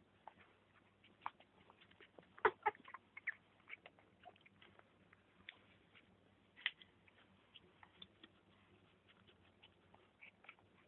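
Faint, scattered tiny squeaks and clicks from a litter of young pets, with a small burst of louder clicks about two and a half seconds in.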